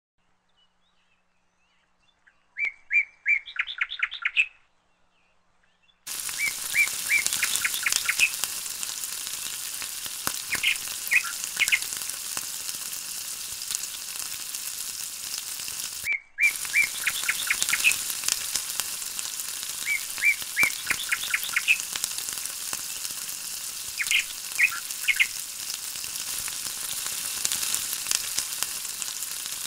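Chilli-garlic sauce sizzling and crackling in oil in a frying pan, starting about six seconds in after a near-silent opening. Over it, a bird chirps in quick runs of high notes every few seconds.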